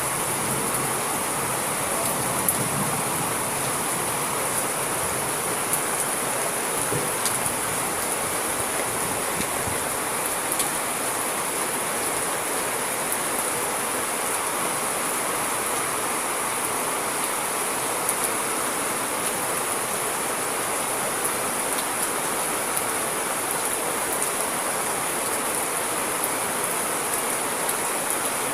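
Steady heavy rain: an even hiss with scattered sharp ticks of drops hitting surfaces.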